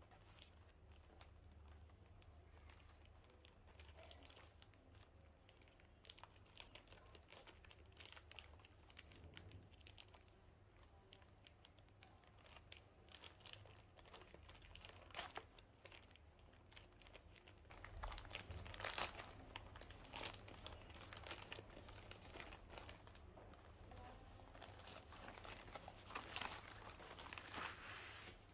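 Faint crinkling and rustling, as of packaging or paper being handled, with many small crackles and louder stretches about two-thirds of the way through and again near the end.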